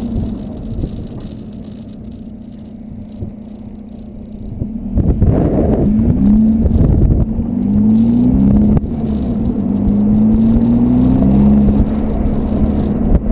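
Volkswagen Golf 2.0 TDI four-cylinder turbo-diesel with a 3-inch Cortek exhaust and high-flow cat, droning steadily at first. About five seconds in it gets loud and its note climbs in several short rises one after another as the engine pulls.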